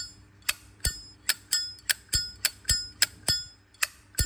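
A Zippo windproof lighter's hinged lid being flicked open and snapped shut over and over, about a dozen sharp metallic clicks, each with a short bell-like ring. The lighter has a 1995 case and a 1996 insert.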